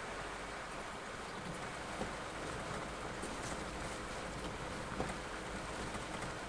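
Heavy rain falling steadily on a vehicle as it drives slowly along a rough track, with a low steady rumble of the engine and running gear beneath and a few small ticks from drops or knocks.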